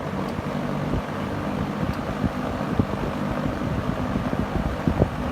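1976 Vernco Model V11041 20-inch box fan running on high speed, its three-wing plastic blade giving a steady rush of air over a low motor hum.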